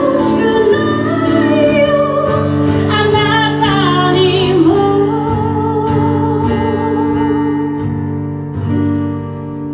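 Band music in an instrumental break of a pop-rock song played live: a wavering lead melody over sustained guitar chords and bass, thinning to held chords near the end.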